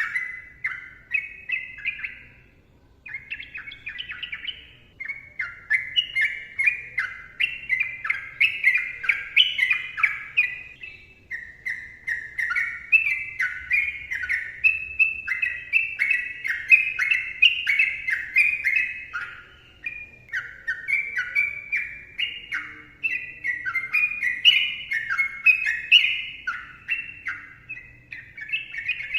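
Yellow-vented bulbul singing a long, dense run of quick chattering phrases with hardly a break, pausing briefly about three seconds in.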